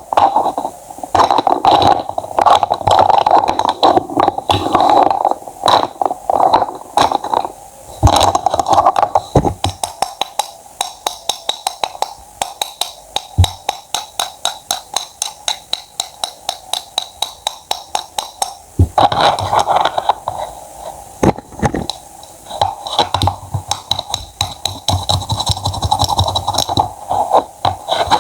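A knife cutting fruit and vegetables on a cutting board: crunchy slicing and scraping, with a fast, even run of chops in the middle.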